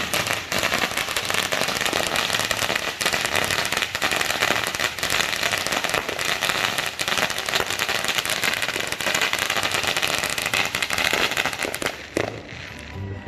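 Fireworks crackling: a loud, dense, continuous rattle of many small cracks that thins out and dies down near the end.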